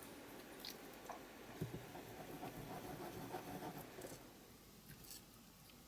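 Faint rustling and scratching of paper pieces being handled on a tabletop, with a few soft taps.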